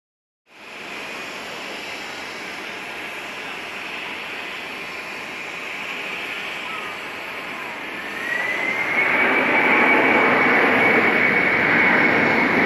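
Boeing 767-300 freighter's jet engines on approach to land: a steady jet rumble, then about eight seconds in a rising whine that settles into a steady high tone as the engine sound grows louder.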